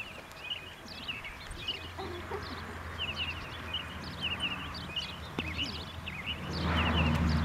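Birds chirping outdoors at dawn, many short high calls repeating over one another. Under them runs a low steady hum that grows louder with a rush of noise about six and a half seconds in.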